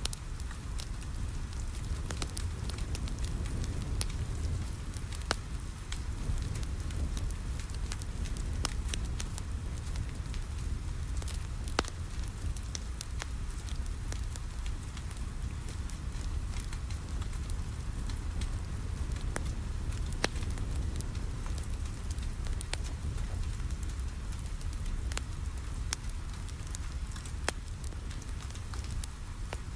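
Wood fire crackling in a fireplace, with scattered sharp pops over a steady low rumble, mixed with rain pattering on a window.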